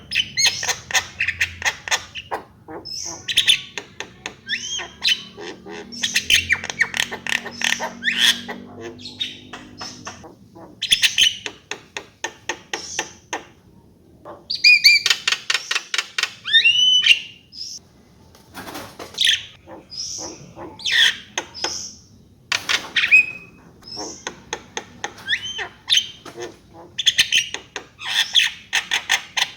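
Javan myna singing: bursts of rapid clicks and chatter mixed with whistled, sliding notes, coming in phrases every second or two with short pauses between.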